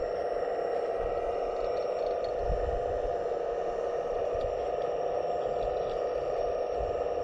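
Hydraulic pump of a 1/15-scale RC excavator running with a steady whine, with a few low knocks about two and a half seconds in.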